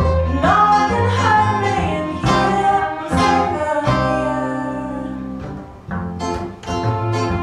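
A live band playing a song: strummed acoustic guitar under a sung melody.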